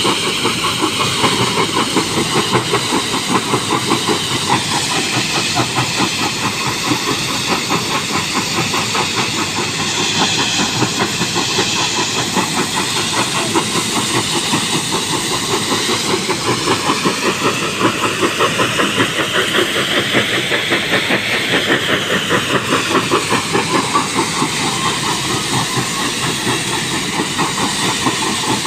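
An engine running steadily with a rapid, even chugging beat throughout, with no break.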